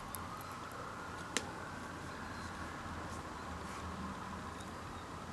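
Steady room hum and hiss, with a small click just after the start and a sharper click about a second and a half in.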